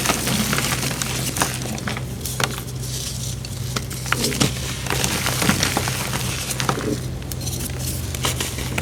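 Crumbly blocks of chalky powder being crushed by hand: a run of irregular sharp crunches and crackles, over a steady low hum.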